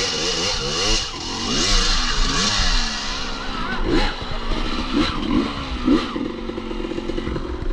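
Dirt bike engine revving up and down in quick repeated bursts, with a few sharp knocks and clatter as the bike is worked over wet, slippery logs.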